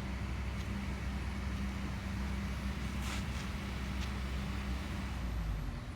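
Heavy machine's engine running steadily, with a couple of light clicks.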